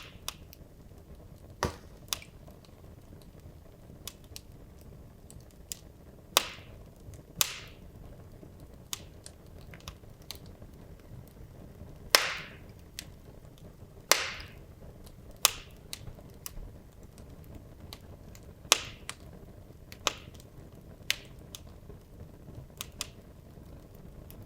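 Wood logs burning in a fireplace, crackling with irregular sharp pops and snaps over a faint low rumble of the flames; a few louder pops trail off in a short hiss, the loudest about halfway through.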